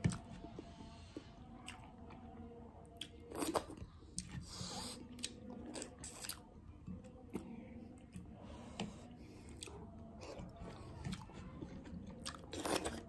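A person eating dhido and mutton curry by hand, close to the microphone: wet chewing and lip-smacking with many small clicks, and a few louder bites.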